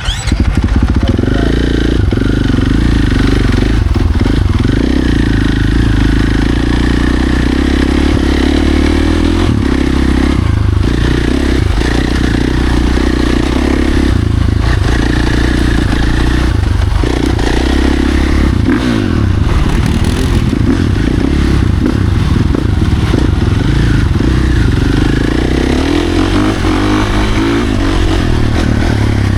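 Dirt bike engine running hard as it is ridden along a trail, the throttle repeatedly backing off and opening again.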